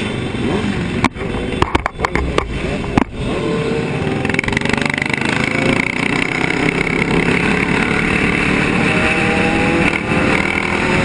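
Motorcycle engines running and revving in traffic, their pitch rising in places. Several brief sudden drop-outs and clicks break the sound between about one and three seconds in.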